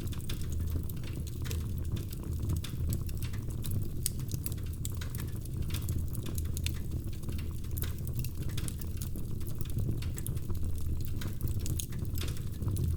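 Wood fire burning in a fireplace: a dense, irregular stream of sharp crackles and pops over a steady low rumble of the flames.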